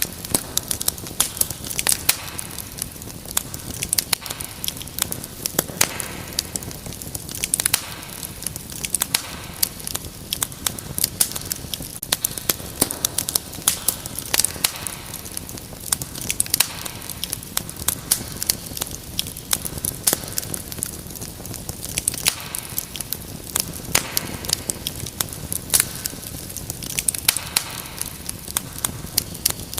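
Wood fire crackling in a fireplace: many irregular sharp pops and snaps over a steady hiss of burning.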